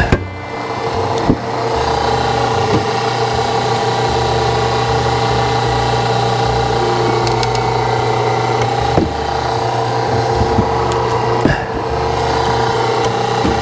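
Low-tonnage hydraulic log splitter running under load as its wedge presses into a log: a steady motor-and-pump drone that rises about a second and a half in and then holds. A few sharp cracks or knocks break through now and then.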